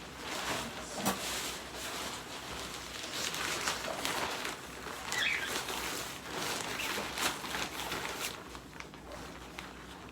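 Rain falling steadily, a soft hiss with irregular patter and drips, and a short high chirp about five seconds in.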